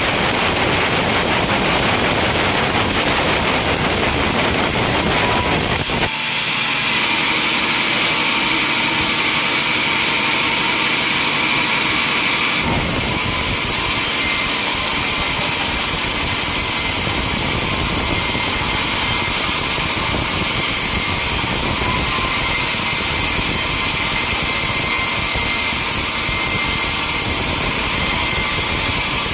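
Sawmill machinery running loudly and steadily. The sound changes character abruptly twice, about six and about twelve seconds in.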